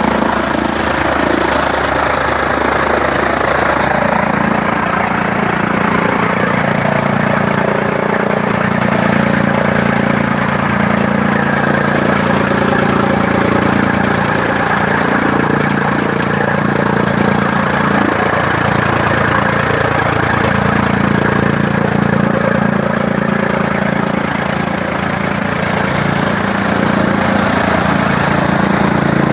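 Tractor engine running steadily under load while driving a chaff cutter, with the cutter's machinery running along with it.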